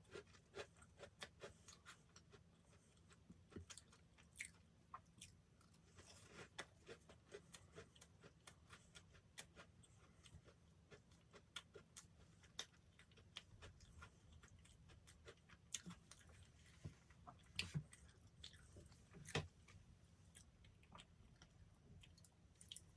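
Close-up chewing and biting of soft dessert bread: wet mouth clicks and small crunches, irregular and scattered, with a few louder bites about three-quarters of the way through.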